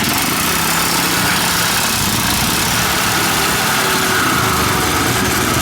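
Classic racing motorcycle engines running hard, with an engine note that falls in pitch near the end.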